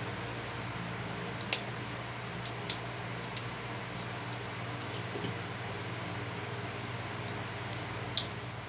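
Small repair tools and phone parts being handled, giving a handful of sharp, light clicks at uneven intervals over a steady low hum.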